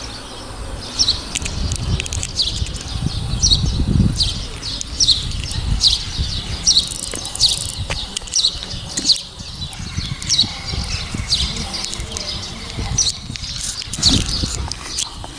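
A small bird chirping over and over in short, high, falling chirps, one to two a second, over a low uneven rumble.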